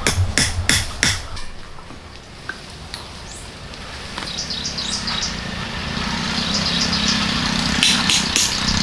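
Rhythmic hammer-like knocks for about the first second, then they stop. After that, short high bird chirps come in over a low steady drone that slowly grows louder.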